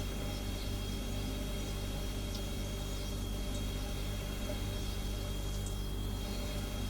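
Refrigerator humming steadily: a low, even hum with a thin, high steady whine above it and a few faint ticks.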